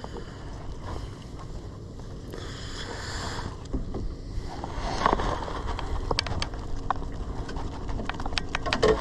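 Wind rumbling on the microphone and sea noise around a drifting fishing boat, with a short hiss of water about two and a half seconds in. A run of small sharp clicks and knocks starts about halfway through.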